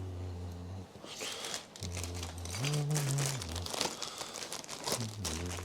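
Plastic zip-lock bag crinkling and rustling as it is handled, under a few low held notes of a hummed tune that step up and down in pitch.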